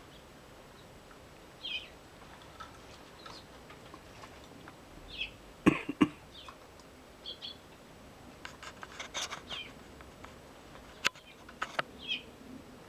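Wild garden birds giving short, scattered chirps, mixed with sharp clicks and knocks; the loudest is a pair of knocks about halfway through, with a quick run of ticks and another sharp click later.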